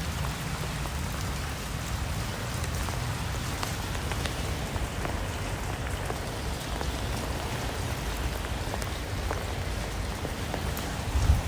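Rain falling steadily: an even hiss with scattered individual drops ticking through it.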